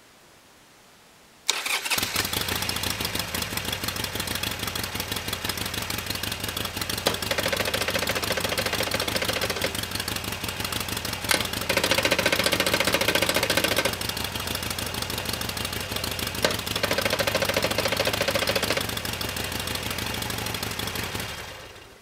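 A Harley-Davidson Sportster's air-cooled V-twin starts up about a second and a half in and runs, louder in three stretches, then stops near the end. The owner is chasing an abnormal noise that he puts down to the transmission.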